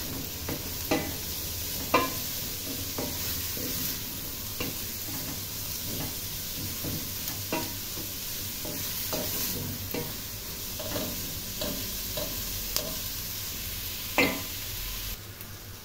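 Minced meat and chopped onions sizzling as they fry in a stainless steel pot, while a wooden spoon stirs them, scraping and knocking against the pot now and then. The loudest knock comes about 14 seconds in.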